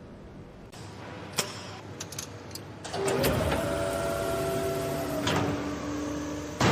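A few sharp clicks, then a small motor whirring steadily for about three and a half seconds before it stops.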